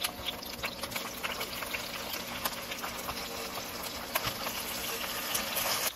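Battered napa cabbage leaves frying in oil in a nonstick pan: a steady sizzle full of small pops and crackles.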